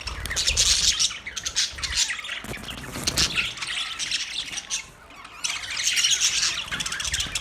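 Pet budgerigars chattering and chirping together, a busy mix of warbles, chirps and squawks that thins out briefly past the middle and then picks up again.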